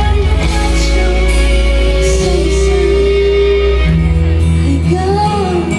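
Female singer with a live pop-rock band, holding a long sung note over guitar and drums.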